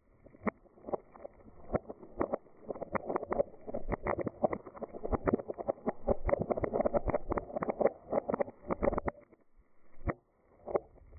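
Dried beans rattling and rolling: a dense run of small hard clicks over a soft rush that swells over several seconds and cuts off about nine seconds in, leaving a few scattered clicks.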